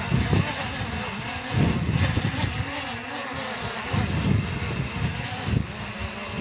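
DJI Mini 3 drone's propellers buzzing steadily, with strong wind gusting across the microphone in a low rumble that swells and fades.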